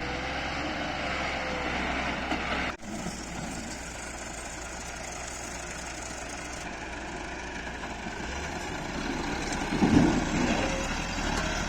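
Massey Ferguson tractor's diesel engine running steadily, with a louder burst about ten seconds in.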